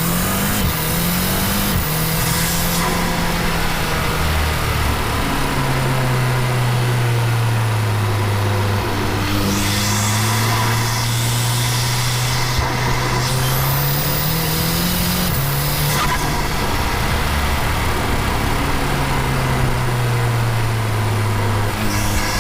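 Tuned Audi TTS 2.0-litre turbocharged four-cylinder with aftermarket intake and exhaust, driving: engine note climbing as it accelerates, holding steady, then rising again and dropping sharply at a gear change about two-thirds through, with short hissing rushes of air at times.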